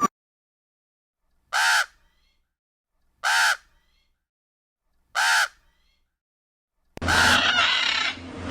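A short bird call repeated three times, each copy the same and spaced about two seconds apart with silence between. About seven seconds in, a louder, rougher animal call begins.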